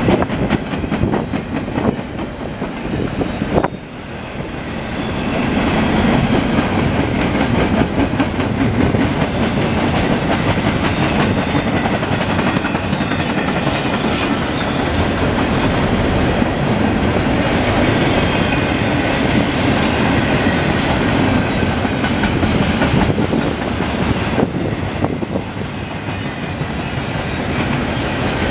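Double-stack intermodal well cars of a freight train rolling past: a steady rumble with the steel wheels clicking on the rails. The sound dips briefly about four seconds in.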